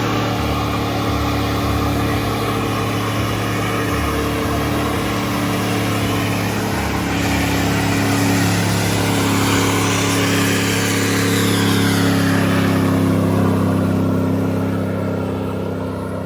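Car engine held at high revs during a burnout, with tyre noise. The engine note rises and gets louder about halfway through, then fades away near the end.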